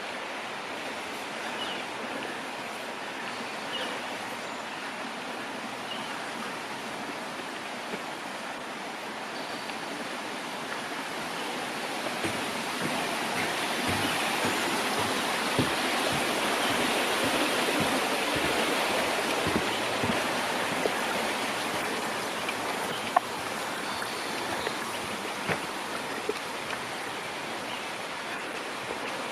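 A rushing stream, a steady wash of flowing water that grows louder about halfway through, as if passing close by, and then eases back.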